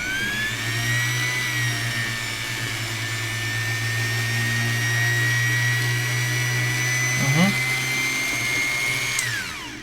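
Small electric motor spinning up with a rising whine, running steadily at a high pitch with a low hum beneath for about nine seconds, then winding down quickly as it is switched off.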